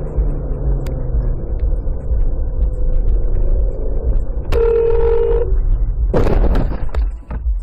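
Steady low rumble of a vehicle on the move. About halfway through there is one held, horn-like tone lasting about a second, and about a second later a loud rough burst with sharp knocks.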